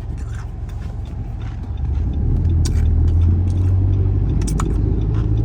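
Car driving, heard from inside the cabin: a low engine and road rumble that grows louder about two seconds in, with a couple of light clicks.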